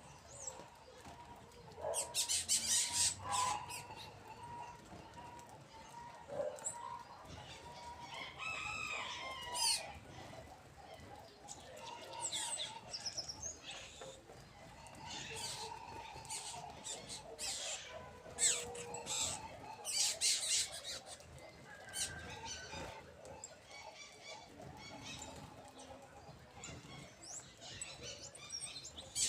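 Birds feeding, with repeated short bursts of sharp sounds and a few brief gliding calls.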